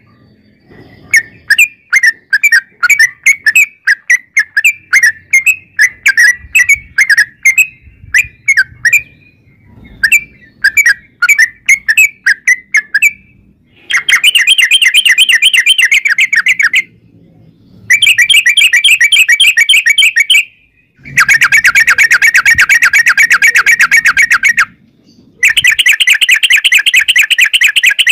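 Yellow-vented bulbul (trucukan) song. For the first dozen seconds it gives separate, irregular chirps, then four long rapid rolling trills of about three seconds each, with brief pauses between them.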